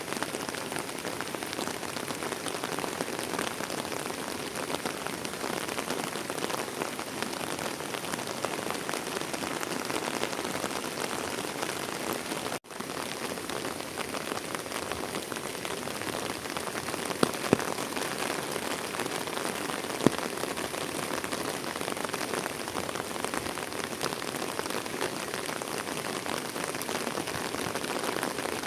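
Heavy rain falling steadily and pattering on surfaces, with a few sharper drop hits in the second half. The sound cuts out for an instant about halfway through.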